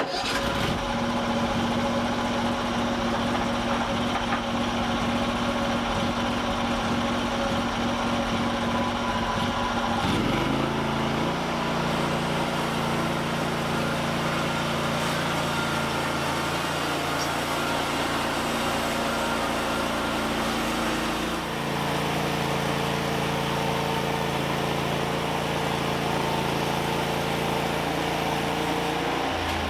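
Small engine running steadily, its speed shifting about ten seconds in and again about twenty-one seconds in.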